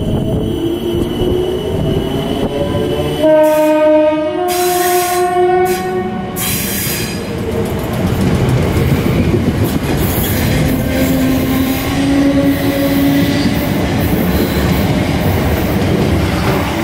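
A South Western Railway Class 455 electric multiple unit running past the platform: steady wheel and motor rumble with drawn-out whining tones. A train horn sounds two notes, low then higher, about three seconds in, lasting about three seconds.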